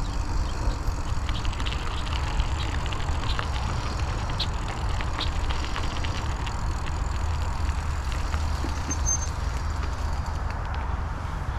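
Wind rumbling over a chest-mounted camera's microphone while a Raleigh Trailblazer hardtail mountain bike rolls along a dirt trail, with steady tyre noise and scattered small clicks and rattles from the bike.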